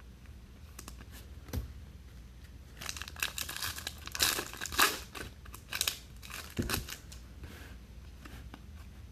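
Foil wrapper of a 2019 Topps Chrome trading-card pack crinkling and tearing as it is opened by hand, in a cluster of short rustles a few seconds in.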